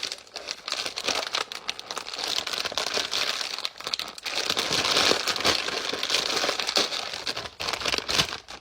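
A Lay's potato chip bag being handled and opened, its plastic crinkling and crackling.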